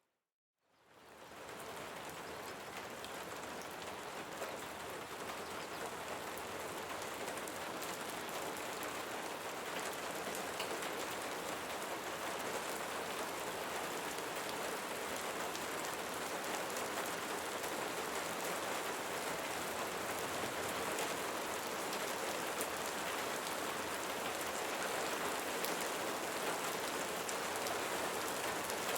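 Steady rainfall: an even hiss of rain with scattered sharper drop ticks. It fades in from a brief moment of silence at the very start and then holds steady.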